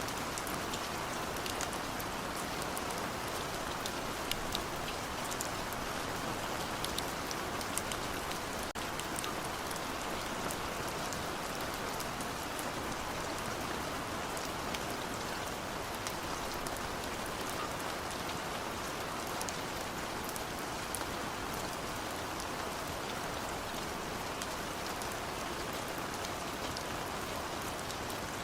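Steady rain falling: an even hiss with the fine patter of drops throughout.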